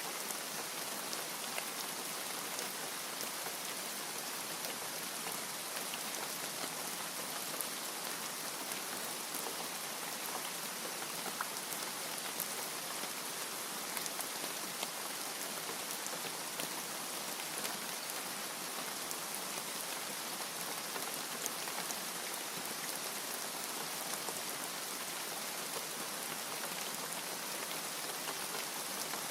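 Steady rain falling, a constant hiss with many small drops ticking on a surface.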